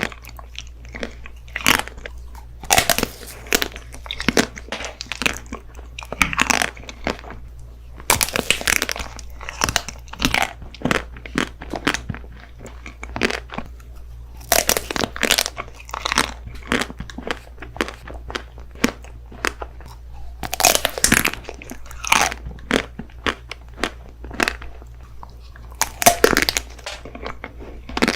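Close-miked eating: crunchy bites and chewing, coming as a cluster of sharp crunches every few seconds.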